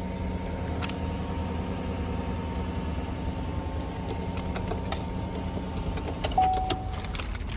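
Chevrolet Silverado pickup idling with a steady low rumble and hum. Small clicks come and go, and a short steady tone sounds about six and a half seconds in.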